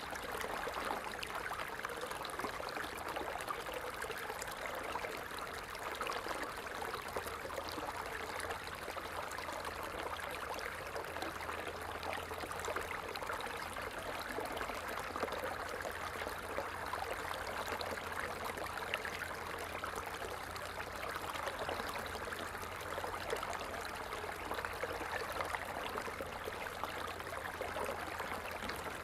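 Water falling and splashing steadily, a continuous rushing noise flecked with small droplet splashes.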